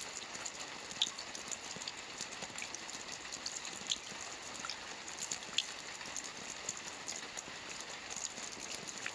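Soft rain falling on a roof: a steady patter, with scattered individual drops landing sharply, the clearest about a second in and around four and five and a half seconds in.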